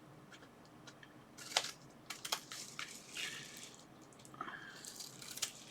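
Faint handling of small parts and plastic packaging: a few light clicks and short rustles.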